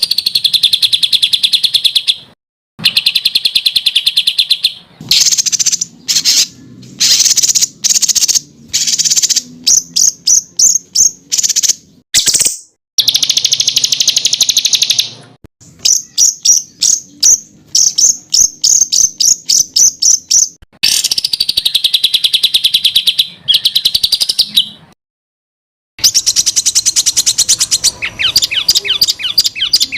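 Songbird song in 'tembakan' style: long buzzy trills alternate with runs of rapid, sharp repeated high notes at about four or five a second. The segments are spliced together, with abrupt breaks to silence, including a full second of silence shortly before the end.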